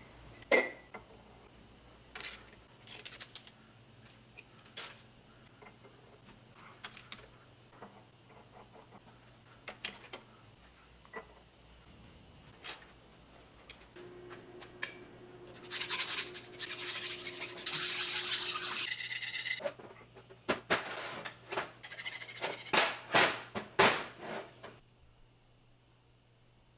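Metal hand tools and engine parts clinking, tapping and scraping during work on the engine's head studs, with scattered sharp clicks. A steady whirring hiss runs for a few seconds past the middle, followed by a burst of louder clinks before it goes quiet near the end.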